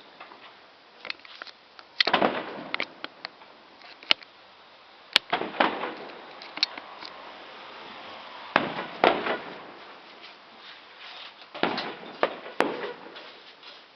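Fireworks going off: four loud bangs, each trailing off in a rolling echo, with smaller sharp cracks in between.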